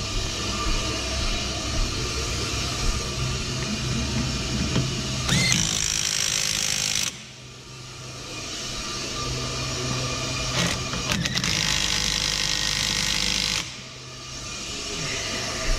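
Ammco 4000 brake lathe running with a steady hum. Two long stretches of harsh, hissing noise sit over it and each cuts off suddenly, one about seven seconds in and one about thirteen and a half seconds in.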